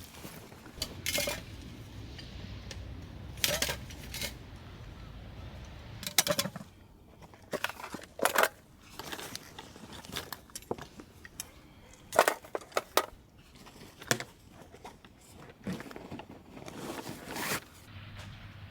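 Gear being handled: irregular sharp clinks, clicks and rustles, a dozen or so spread through the stretch, over a faint low hum during the first six seconds.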